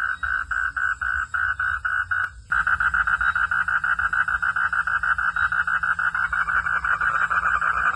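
Frogs calling in a steady series of pulsed notes, about three a second. A little over two seconds in, the sound cuts abruptly to a denser, louder chorus of rapid pulsing calls.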